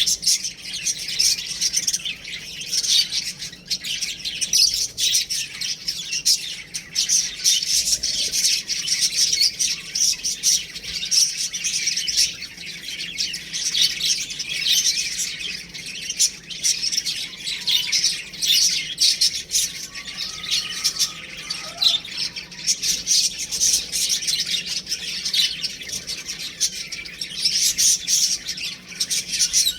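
Many baby chicks peeping continuously, a dense overlapping chorus of high chirps.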